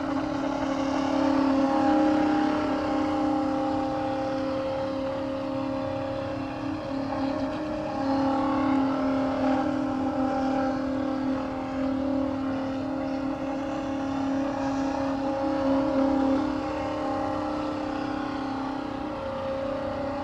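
Electric motor of a radio-controlled Chris Craft Constellation model boat running on an 11.1-volt LiPo battery: a steady whine that rises and falls slightly in pitch as the throttle changes.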